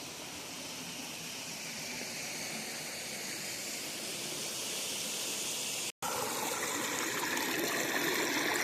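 Steady rushing of flowing river water, growing slowly louder. It cuts out for an instant just before 6 seconds in, then comes back brighter.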